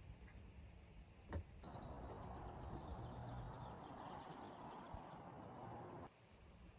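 Small birds chirping: quick series of short high chirps over a steady outdoor hiss that starts about two seconds in and cuts off suddenly near the end. A single click comes just before.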